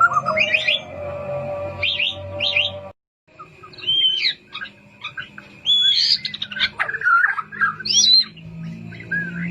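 White-rumped shama singing: a rapid string of varied whistled phrases and chirps that swoop up and down in pitch, with a brief complete break about three seconds in.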